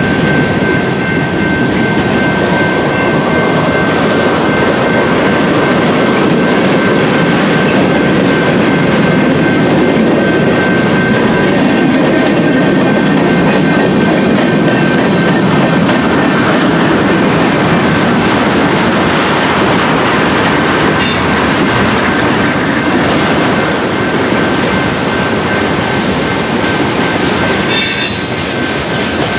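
Freight cars of a Union Pacific manifest train rolling steadily through a grade crossing, their wheels clacking over the rail joints. A steady high-pitched tone runs under it, and a few short high squeals come in the later part.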